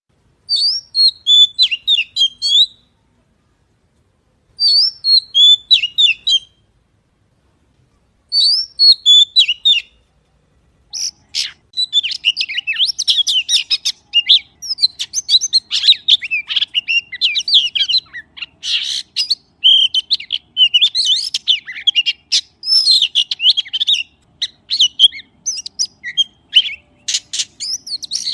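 Magpie singing close up in rapid, high chirping phrases: three short bursts with pauses between them, then nearly continuous chirping through the second half.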